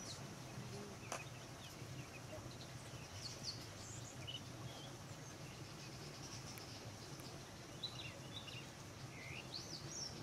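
Faint outdoor ambience with scattered short, high bird chirps, over a low steady hum.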